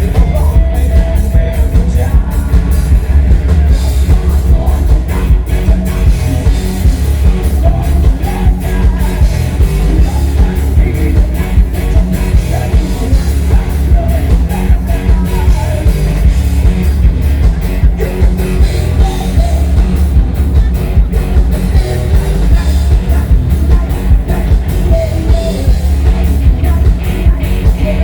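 Live rock band playing, with a male lead singer, electric guitars and a drum kit; loud and continuous, heavy in the bass.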